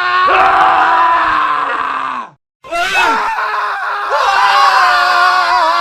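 Men screaming: one long scream that sinks in pitch and breaks off, then after a brief silence another long scream starts.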